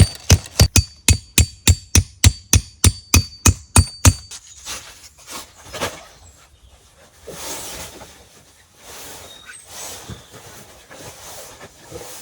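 Steady hammering, about three blows a second, each with a metallic ring. It stops about four seconds in, followed by quieter rustling and a few soft knocks.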